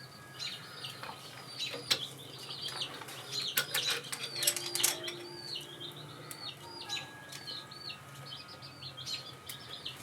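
Birds chirping over and over in short, hooked chirps, with a few sharp clicks and knocks scattered among them.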